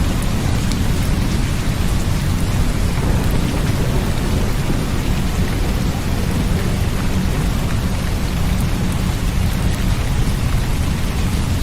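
Steady rain with a continuous low rumble of thunder beneath it, even throughout.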